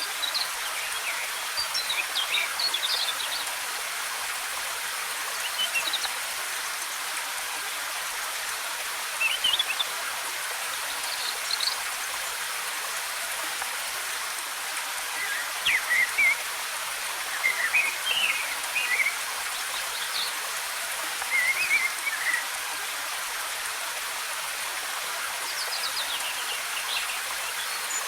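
A steady rush of falling water, with scattered short bird chirps and trills breaking in every few seconds.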